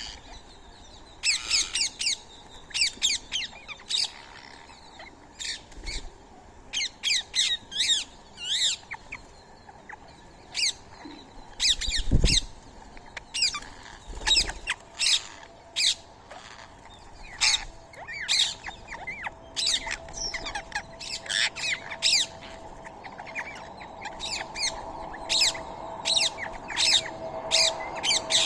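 Birds chirping and squawking in quick runs of short, sharp, high calls. There is a low thud about twelve seconds in, and a faint steady hum joins about halfway through.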